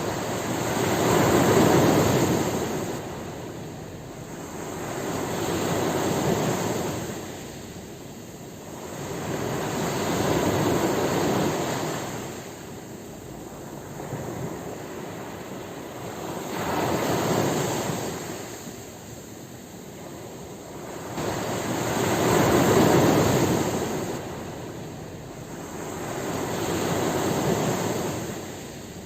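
Ocean waves breaking and washing up on a shore, in surges that rise and fade about every five seconds, six in all.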